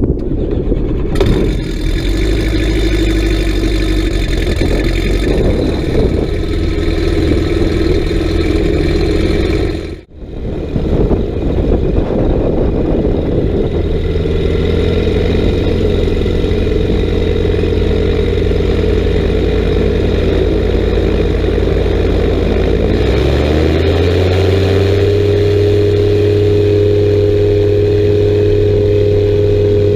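Light aircraft's engine and propeller running steadily, with a brief dip about a third of the way in; about three quarters of the way through the engine note rises and then holds at higher revs.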